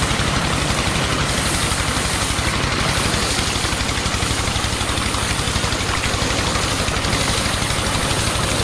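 The small motor of a homemade miniature tractor running steadily, with a rapid, even pulse of about ten beats a second.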